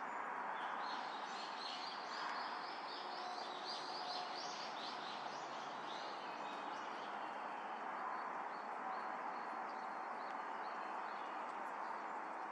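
Small birds chirping in quick, dense runs of short high notes that thin out after the first half, over a steady background rush.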